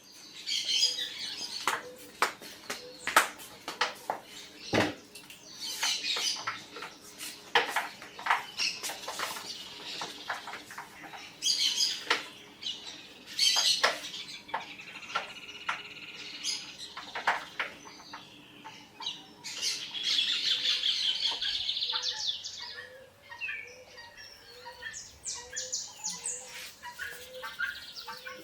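Birds chirping and squawking, mixed with scattered sharp clicks.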